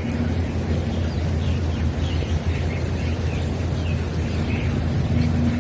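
Outdoor pond ambience: a steady low hum with scattered short, high bird chirps.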